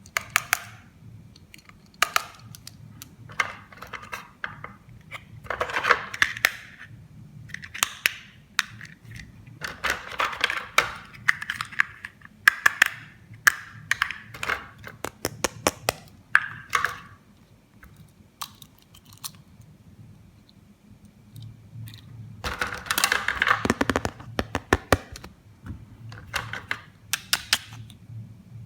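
Plastic toy pieces and packaging being handled: irregular clicks and taps with short bursts of rustling, and a longer spell of rustling about three quarters of the way through.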